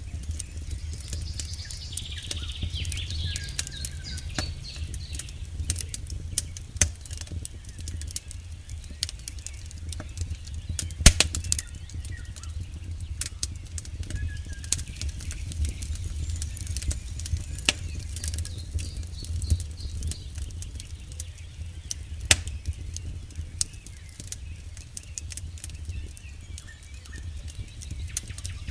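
Campfire crackling, with many small irregular pops and snaps over a low steady rumble of the burning wood. A sharp loud pop comes about eleven seconds in and another about twenty-two seconds in.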